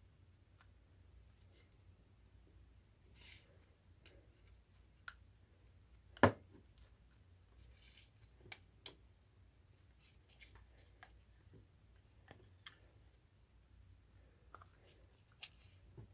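Scattered small clicks and taps of objects being handled, with one louder sharp click about six seconds in, over a faint low hum.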